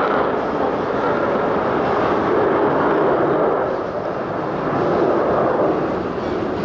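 Loud jet noise from US Navy Boeing F/A-18 Super Hornets in flight, their twin turbofans giving a steady rushing sound. It eases slightly about four seconds in and swells again.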